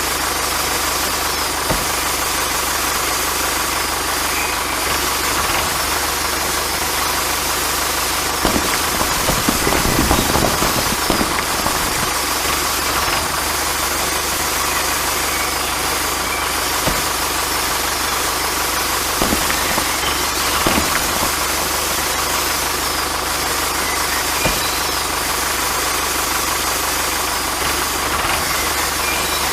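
A small engine running steadily, a little louder for a couple of seconds about nine seconds in and again around twenty seconds.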